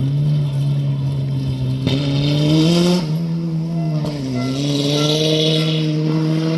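Rally car engine running under throttle. Its pitch steps up, dips briefly near the middle and climbs again as the driver comes off and back on the power. Two bursts of hiss ride over it.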